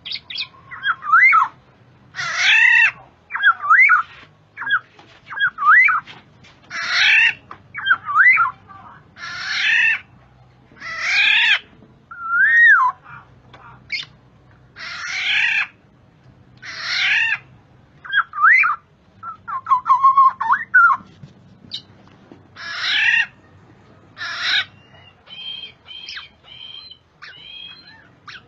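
Black-naped oriole (kepodang) calling: harsh, nasal squawks about every one to two seconds, mixed with short fluted whistles that slide up and down in pitch. Near the end the calls give way to a run of higher, thinner repeated notes.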